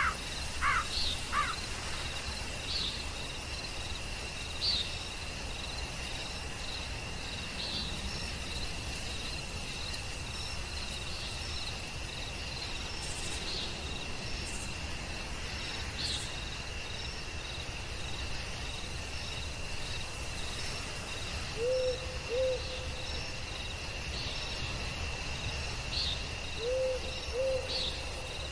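Forest night ambience: a steady high insect drone with regular short chirps above it, a few quick falling bird calls at the start, and an owl hooting in pairs of low notes twice in the second half.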